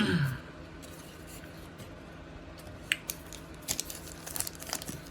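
Trading cards being handled: light clicks and rustles of card stock, sparse at first and growing busier about three and a half seconds in.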